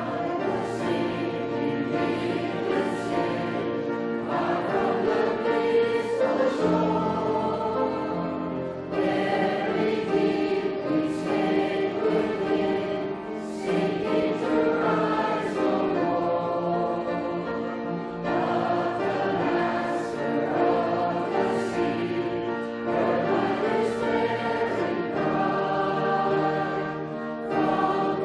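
A group of voices singing a hymn together in long held phrases, with short breaths between the lines.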